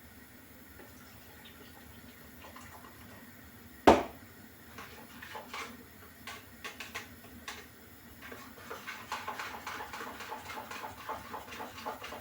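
A single sharp metal clank about four seconds in, then faint liquid sloshing with small clinks and taps as Guinness is swirled in an emptied condensed-milk tin to rinse it out.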